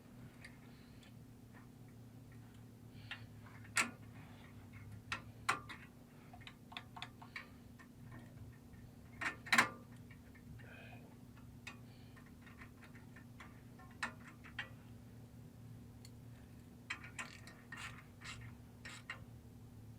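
Scattered, irregular light clicks and taps of tools and small parts being handled, over a steady low hum.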